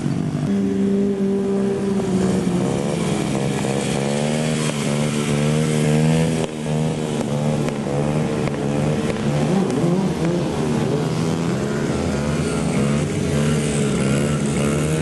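Mini bike engines running and revving up and down, more than one engine at once, with the pitch rising and falling repeatedly and a brief drop in level about six and a half seconds in.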